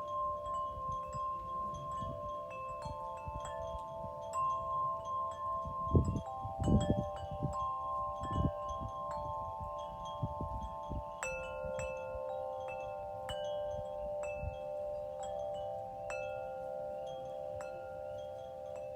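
Wind chimes ringing, their tubes struck at irregular moments so that several long, overlapping tones ring together. A few low rumbles come through near the middle, the loudest about six to seven seconds in.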